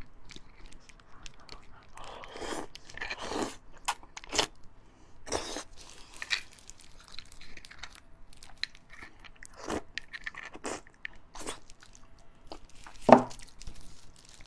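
Close-miked chewing and biting of beef bone marrow, irregular crunching bites and mouth noises, with one louder sharp click near the end.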